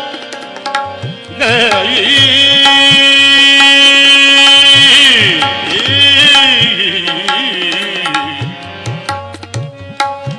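Gurbani kirtan music: tabla keeps a steady rhythm with bending bass strokes under harmonium. A long held note comes in about a second and a half in, then gives way to sliding vocal ornaments near the middle.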